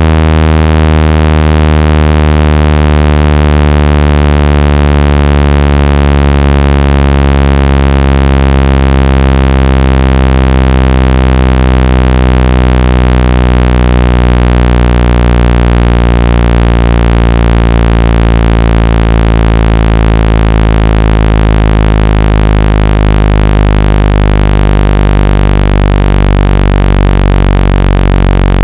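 Synthesized low buzzing tone with many overtones, played loud and without a break and falling slowly in pitch: a speaker water-and-dust ejection sound meant to vibrate a phone speaker's cone and push out water.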